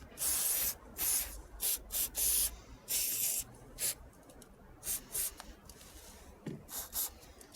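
Würth HHS Grease aerosol can spraying white Teflon grease onto a car door hinge in a series of short hissing spurts. Most come close together in the first four seconds, then a few brief puffs.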